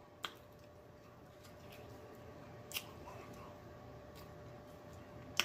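A man chewing a large mouthful of fried chicken with his mouth closed: faint wet mouth sounds broken by three sharp lip-and-tongue clicks spread through the stretch.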